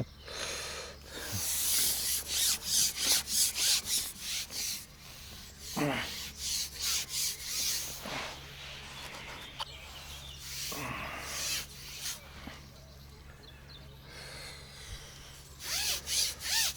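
A fishing pole being shipped back out after rebaiting. It makes runs of quick rubbing strokes, about three or four a second, three times.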